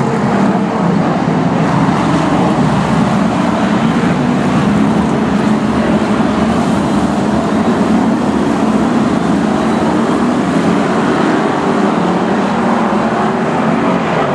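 Racing pack of BriSCA F1 stock cars with V8 engines running around the oval: a loud, steady, continuous engine noise with no single car standing out.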